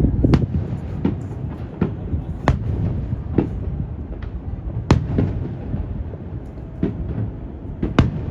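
Aerial fireworks shells bursting in a run of sharp, irregular bangs. The loudest come about half a second, two and a half, five and eight seconds in, with smaller cracks between, over a steady low rumble of wind buffeting the microphone.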